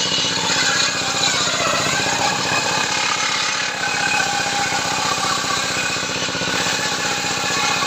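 A power tool running steadily under load, with a rapid pulsing.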